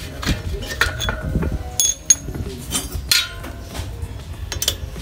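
Irregular metallic clinks and light scrapes, some with a brief ring, as a steel motorcycle front axle is slid out through the wheel hub and fork.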